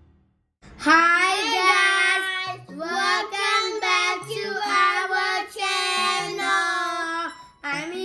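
A child singing a melody with held notes over a light musical backing, starting just under a second in and pausing briefly near the end.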